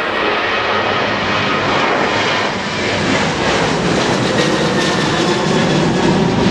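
Airliner's engines: a loud, steady noise with a faint held whine that grows slowly louder and deeper as the aircraft comes closer.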